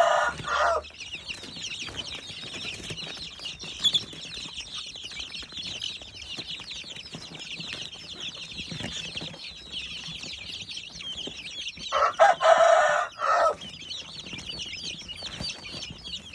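A flock of chicks peeping continuously in a dense, high chorus. A louder adult chicken call cuts in right at the start and again about twelve seconds in.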